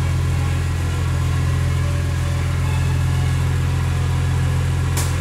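A car engine idling with a steady low hum, a short hiss near the end.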